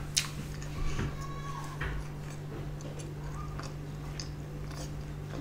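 Close-miked chewing of a soft shawarma wrap: scattered wet mouth clicks and smacks, one sharper click just after the start, over a low steady electrical hum.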